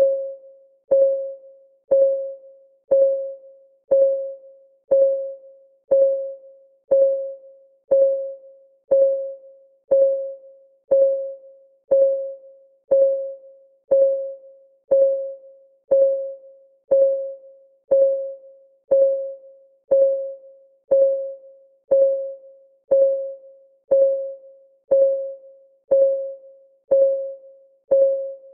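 Clock ticking sound of a countdown timer: one tick a second, each a short pitched tick that rings briefly and fades, perfectly regular.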